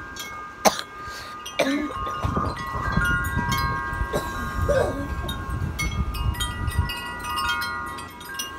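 Metal wind chimes ringing, several overlapping tones sounding and fading at different moments, with wind rumbling on the microphone through the middle and a sharp click about a second in.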